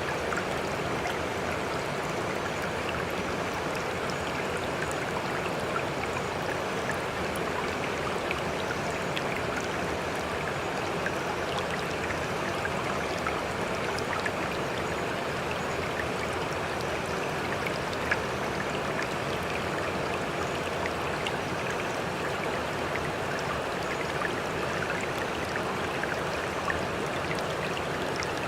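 Steady rush of moving water, even throughout, with many small drips and splashes ticking through it.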